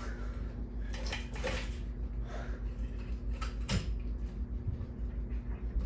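Ceiling fan parts being handled: several short light knocks and rattles, over a steady low hum.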